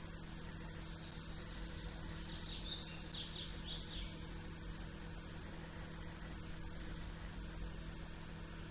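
Small songbird giving a brief burst of a few quick, high chirping notes about two to four seconds in, over a steady low background hum.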